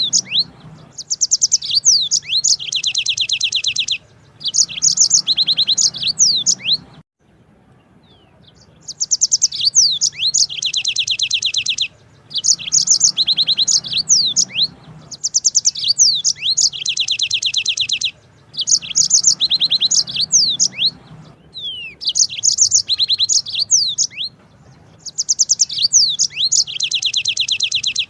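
Yellow-fronted canary (Mozambique singer) singing its long rolling song. Bouts of a few seconds of very fast, high trills and quick sliding notes alternate with short pauses, and there is a longer break about seven seconds in.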